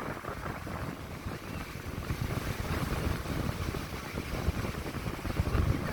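Wind buffeting the microphone at sea: a gusty low rumble with a fainter hiss of moving water.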